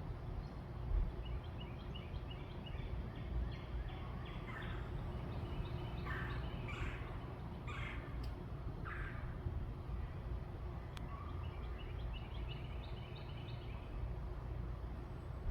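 Birds calling over a steady low background rumble: runs of short, high chirps near the start and again near the end, and four louder, harsher calls about a second apart in the middle.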